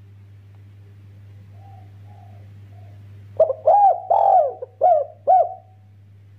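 Spotted dove cooing: faint coos in the first half, then a loud phrase of about five rounded coo notes a little past halfway, with a steady low hum underneath.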